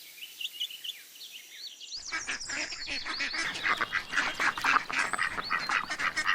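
Chicks peeping. For the first two seconds there are a few faint, high peeps. About two seconds in it switches to a loud, busy chorus of many chicks calling at once.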